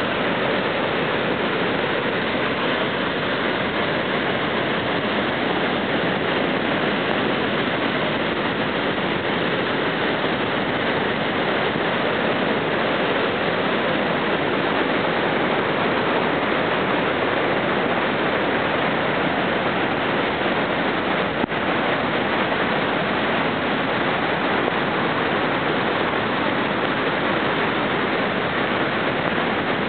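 Floodwater rushing steadily, a constant noisy wash of moving water.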